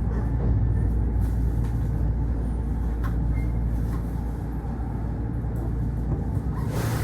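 Steady low hum and rumble inside a Kintetsu Osaka Line local train car, with a few faint clicks, as the train stands at or draws into the terminal platform. A short hiss of air starts right at the end.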